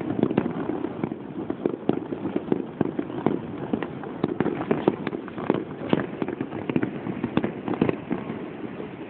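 Fireworks going off in a rapid, irregular series of bangs and crackles, thinning out near the end.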